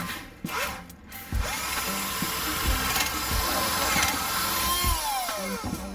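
Electric drill boring a hole in wood: a few knocks, then the motor runs steadily for about four seconds. Near the end its pitch falls away as it spins down.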